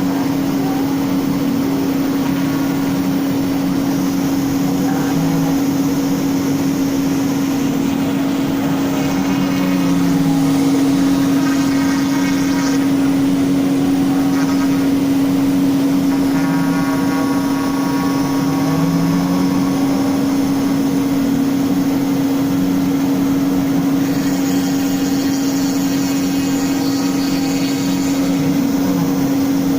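CNC router spindle running steadily at one constant pitch while the bit cuts into wood, with the cutting noise changing every few seconds as the tool moves along its path.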